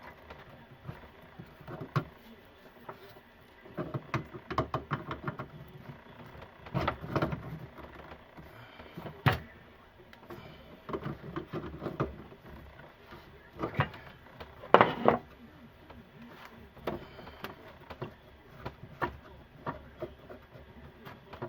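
Irregular knocks, clanks and scrapes of hand tools and drain pipe parts being handled, with quiet gaps between, as a sink's P-trap drain is worked on. The loudest knock comes about two-thirds of the way through.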